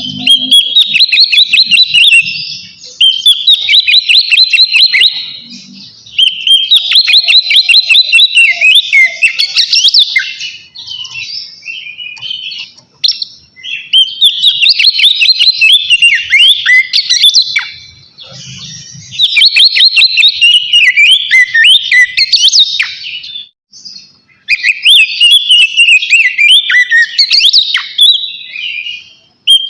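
Oriental magpie-robin (kacer) singing in a loud, full 'ngeplong' song: bouts a few seconds long of rapid, high, repeated notes and trills, separated by short pauses.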